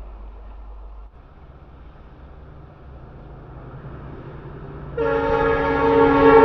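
WAG-9HC electric locomotive running light with a low rumble that grows slowly louder; about five seconds in its air horn sounds suddenly, a loud multi-tone chord held steadily.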